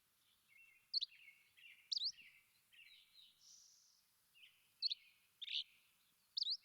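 Songbirds calling: a run of soft, quick chirps, broken by five louder, sharp rising notes.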